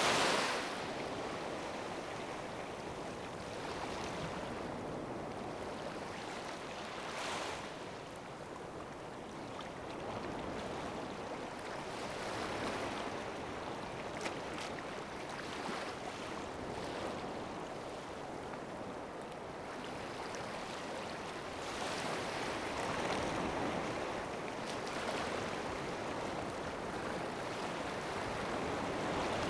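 Sea waves washing, the sound swelling and easing every few seconds.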